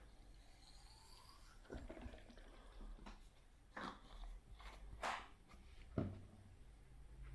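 Quiet handling noises: scattered clicks and knocks, the sharpest one about six seconds in, with a faint rising whistle near the start.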